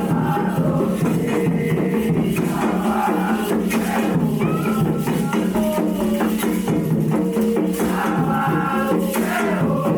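Candomblé ritual music: hand percussion and shaken rattles keeping a steady dense rhythm under a group of voices singing.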